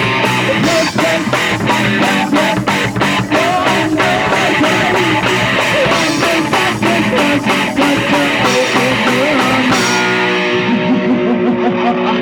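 Punk rock band playing: distorted electric guitar over pounding drums and crashing cymbals. About ten seconds in the cymbals stop and the guitar chords ring on.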